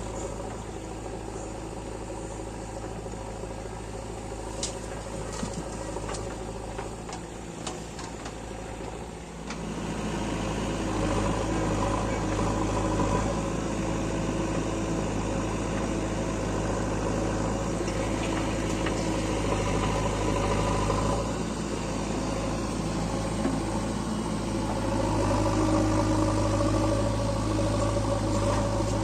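Heavy diesel engine running steadily, coming under more load about a third of the way in, easing briefly later and pulling harder again near the end. A few light clicks sound in the first third.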